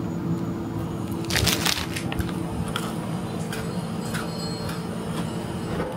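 Biting and chewing a crispy strawberry-and-cream biscuit stick: a cluster of loud crunches about a second and a half in, then a few single, lighter crunches roughly every half second, over a steady low hum.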